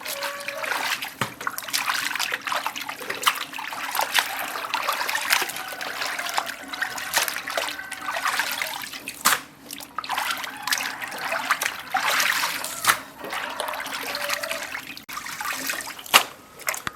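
Water trickling and splashing in uneven bouts, with scattered knocks and clatter.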